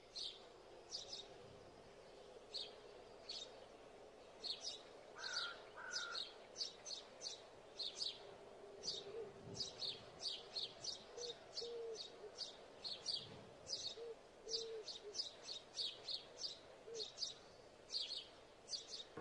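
Small birds chirping: many short, high, sharp chirps in quick runs throughout, over a faint steady background hum, with a few lower, softer calls in the middle — a morning birdsong ambience.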